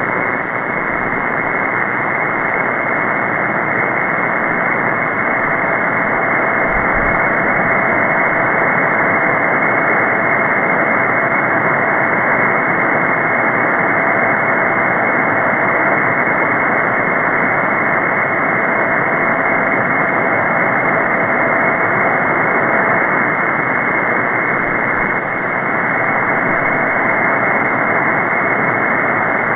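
Steady hiss of shortwave band noise from a receiver tuned to an upper-sideband net frequency in the 20-metre band, with no station coming through and band conditions poor. A faint steady whistle sits in the noise and stops about 23 seconds in.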